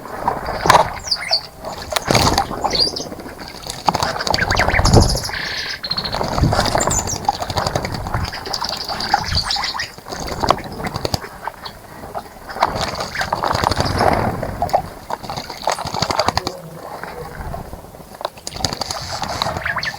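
Birds bathing in a bird bath: repeated splashing and wing-fluttering in the water, with chirps over the top.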